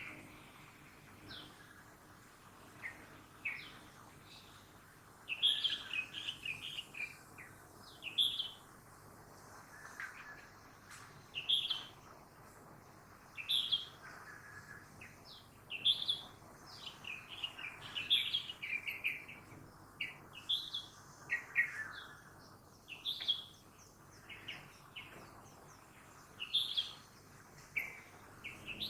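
Birds chirping in quick clusters of short high notes, a burst every second or two, over a faint steady hum of early-morning city traffic.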